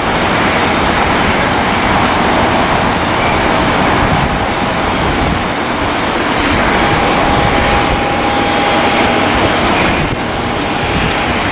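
Jet airliner engines running, a steady noise with a faint whine in it, mixed with wind buffeting the microphone.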